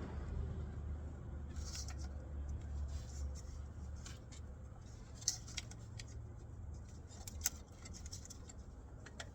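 Scattered light metallic clicks and taps of hands and tools working on engine parts, over a low steady hum that fades after about three seconds; two sharper clicks stand out near the middle and later on.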